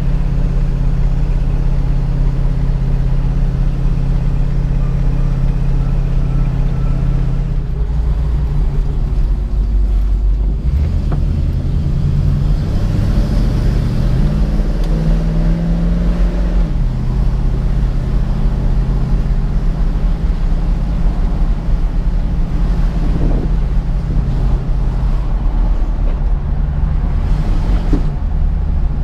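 1967 Ford Mustang's 289 V8 engine running under way at a steady speed, its note changing and climbing in pitch from about eight seconds in before settling back to a steady pitch about halfway through.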